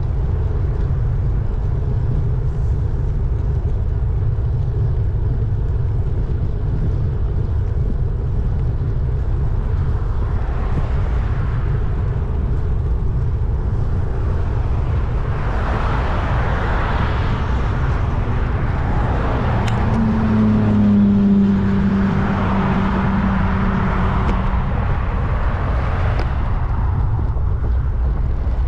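Steady low wind rumble on the microphone while riding, with road vehicles passing several times. The loudest passes about 20 seconds in, carrying a low engine hum.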